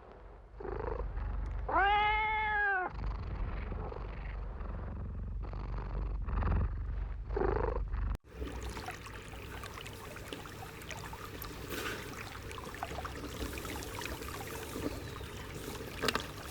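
A kitten meows once, a single call that rises and falls about two seconds in, over a low rumble, with a fainter call near the middle. After a sudden cut, the rest is an even hiss with scattered small ticks and rustles.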